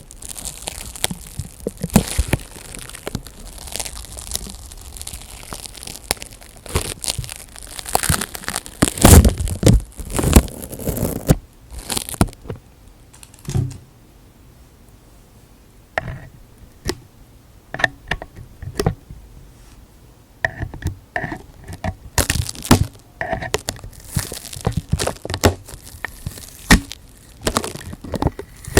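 Close-miked ASMR crinkling and tearing sounds: irregular, dense crackles for about the first twelve seconds, then a short lull, then scattered clicks and short bursts.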